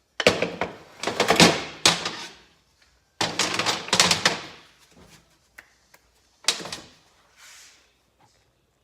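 Metal motorcycle engine parts and tools clattering and clunking as they are handled and set down, in three bursts of knocks, the last and shortest near the end.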